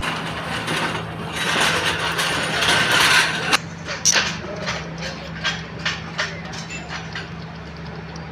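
Car engine running with a steady low hum and a dense mechanical clatter, which thins after about three and a half seconds into separate sharp ticks, about two a second.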